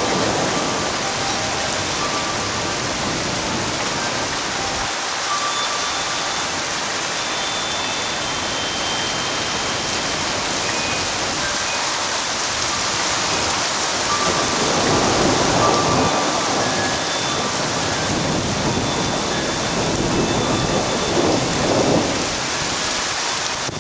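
Steady heavy rain falling during a thunderstorm, with rumbles of thunder swelling up about two-thirds of the way through and again near the end.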